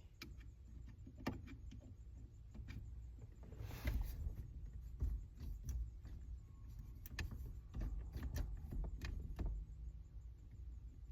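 Scattered small clicks, taps and scrapes of tools and metal parts being worked at a car's steering-column ignition switch, over a low rumble, with a brief louder rattle about four seconds in.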